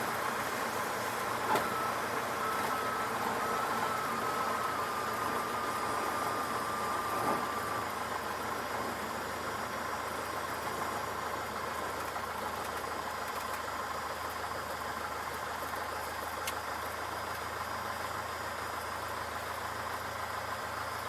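Cessna 152's four-cylinder Lycoming O-235 engine running steadily, heard from inside the cabin with a hiss of airflow. A faint thin tone sounds over it for the first several seconds, sliding slightly lower, and there is a light knock about seven seconds in.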